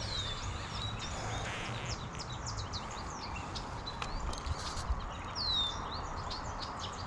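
Songbirds chirping and whistling over a steady background hiss. A clear downward-sliding whistle comes at the start and again about five and a half seconds in.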